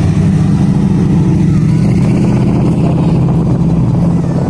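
A car engine running steadily with a low, even drone.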